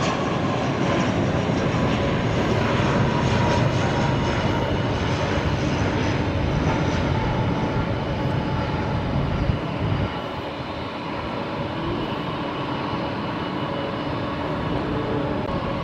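Jet airliner's engines running, a steady rushing noise with a whine held over it; the sound drops to a lower level about ten seconds in.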